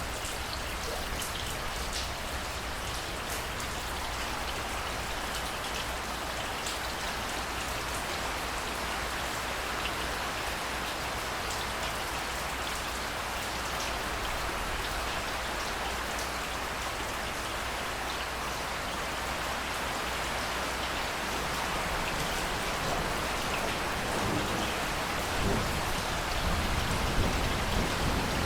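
Steady rainfall, with scattered individual drops ticking against a surface. A low rumble comes in over the last few seconds.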